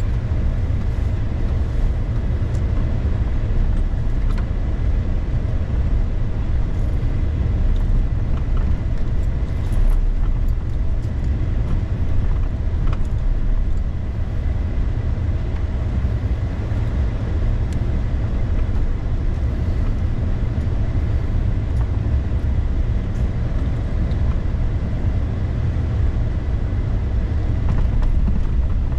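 Crew cab pickup truck driving on a snowy road: a steady low rumble of engine and tyre noise.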